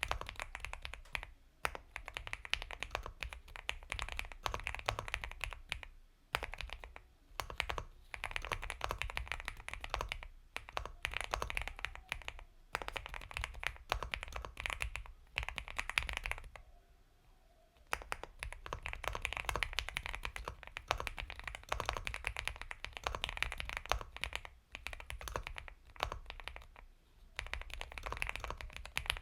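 Typing on an Epomaker x Feker Galaxy 80 mechanical keyboard with Gateron Milky Yellow Pro linear switches: soft, creamy keystrokes in quick runs with short breaks, and one longer pause just past the middle.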